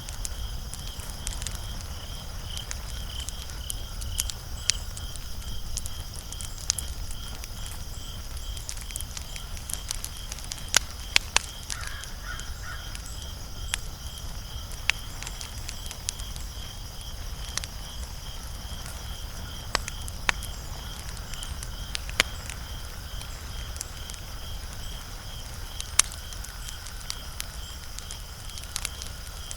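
Wood fire crackling, with scattered sharp pops, a few much louder ones about eleven seconds in and near the end, over a low rumble. A steady fast pulsing high chirp runs behind it.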